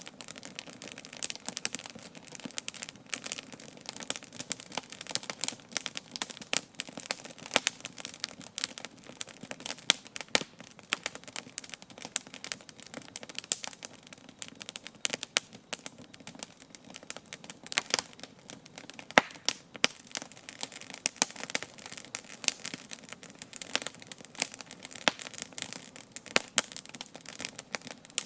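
Wood campfire crackling: a dense, irregular stream of small sharp pops and snaps over a steady hiss.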